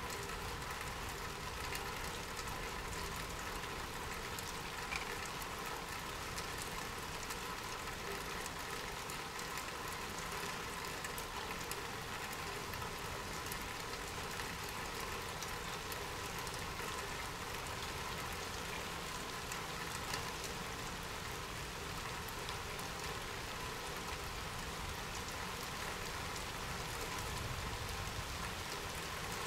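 Steady rainfall: an even hiss of rain with many small, close-spaced drop ticks, keeping the same level throughout.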